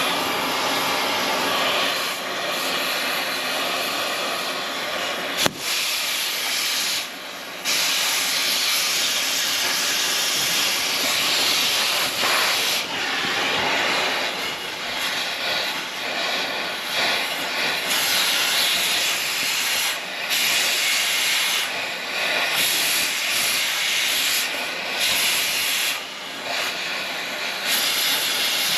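Cutting torch hissing steadily while burning the bolts off dozer track pads. It dips briefly a few times, and there is a sharp click about five seconds in.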